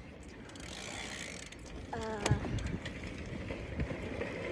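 Bicycle rear freewheel ticking as the bike coasts, over steady road noise. About two seconds in there is a brief pitched squeak and a sharp knock.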